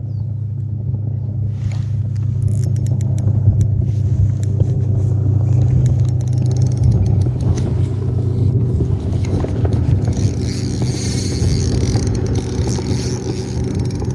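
Motorboat engine running steadily nearby, a low droning hum that grows a little louder a couple of seconds in.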